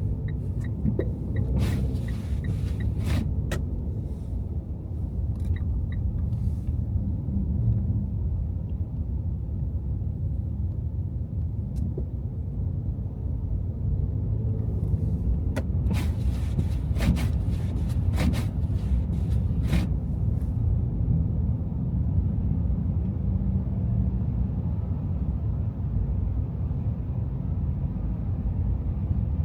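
A car's engine and road noise making a low, steady rumble while driving. Evenly spaced light ticks, about three a second, sound in the first seconds, and a series of sharp clicks comes around the middle.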